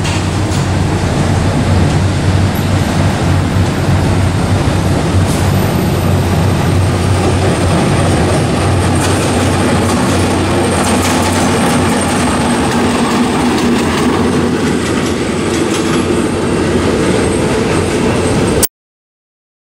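Diesel locomotive of the State Railway of Thailand hauling passenger carriages on the approach, a steady loud low engine hum with rail and wheel noise. The sound cuts out for about a second near the end.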